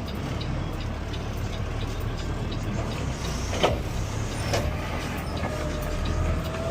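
Peterbilt 520 CNG automated side-loader garbage truck's engine running with a steady low rumble, with two sharp metallic knocks midway and a faint whine starting near the end.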